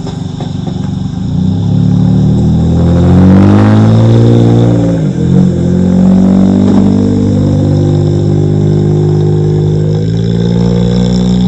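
An engine running steadily, its pitch dipping briefly and picking up again about five seconds in.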